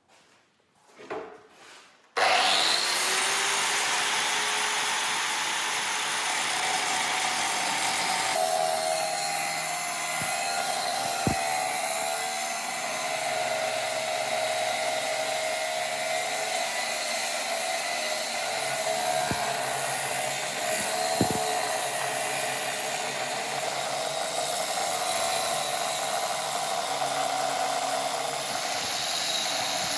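A power tool cutting carbon steel stock starts up about two seconds in and then runs steadily under load, a harsh noisy cutting sound with a wavering tone. Two brief knocks come through partway along.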